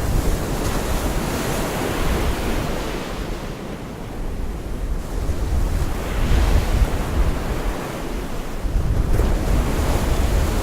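Gulf of Mexico surf breaking and washing ashore, swelling and easing every few seconds, with wind buffeting the microphone as a low rumble.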